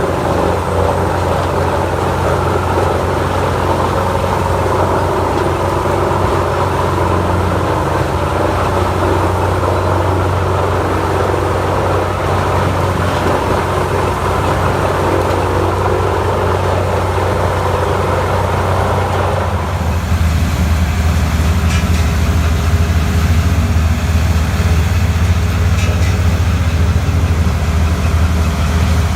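Large industrial wood chipper running: a heavy engine's steady low drone under a dense grinding noise. About twenty seconds in, the grinding noise drops away abruptly while the engine drone carries on.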